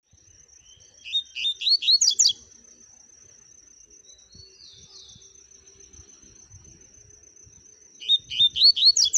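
A seedeater singing two short phrases, about a second in and again near the end. Each phrase is a quick run of about five high, rising-and-falling whistled notes.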